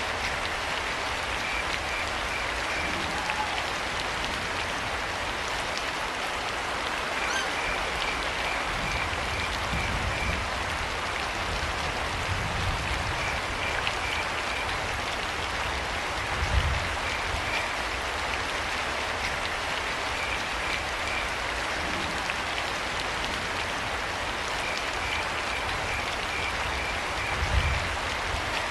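Steady rain falling, with crickets chirping in short pulsed trills that come and go every few seconds. Two brief low thuds stand out, about two-thirds of the way through and near the end.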